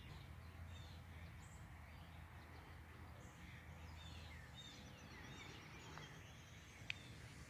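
Faint chirping and twittering of several small songbirds, many short calls overlapping, over a low steady rumble, with one sharp click about seven seconds in.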